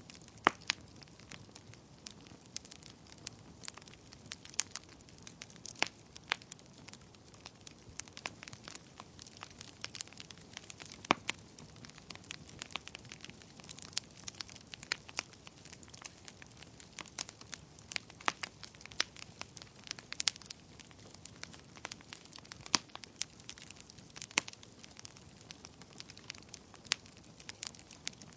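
Wood fire crackling in a fireplace: irregular sharp pops and snaps of varying loudness, sometimes several in quick succession, over a soft steady hiss.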